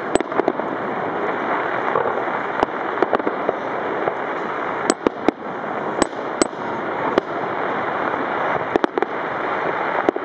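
Fireworks display: a steady rumble of distant bursts with many sharp bangs of shells going off, some in quick pairs.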